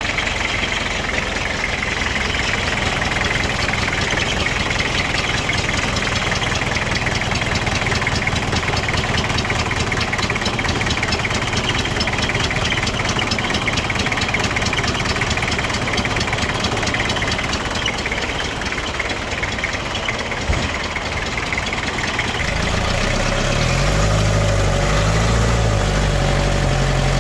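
Toyota Hilux engine running at idle on a half-cut test stand, steady, with a fast even ticking over the engine sound. About 22 seconds in, a lower steady hum joins it and it gets a little louder.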